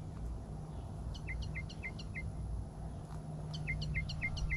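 A bird singing, two runs of quick repeated two-part notes, about three a second, the first about a second in and the second near the end, over a low steady hum.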